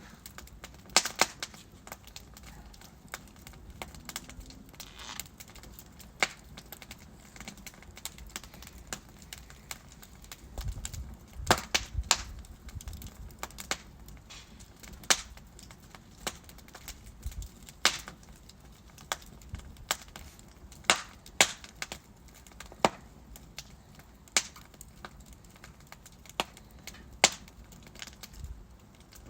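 Wood logs burning in a fireplace, crackling with irregular sharp pops and snaps over a faint steady hiss of the fire, a few of the pops much louder than the rest.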